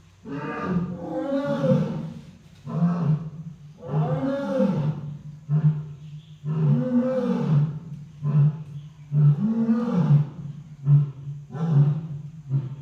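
Lion roaring in a long bout: a string of deep calls about one to one and a half seconds apart, each rising and then falling in pitch.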